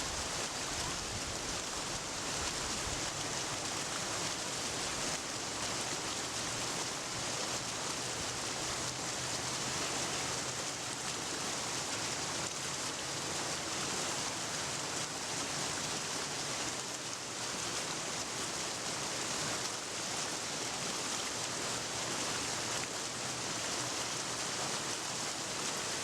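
Steady, even hiss of water, unchanging throughout.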